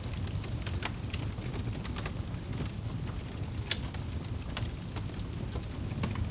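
Wood fire crackling: irregular sharp pops and snaps, one louder snap about halfway through, over a steady low rumble of burning logs.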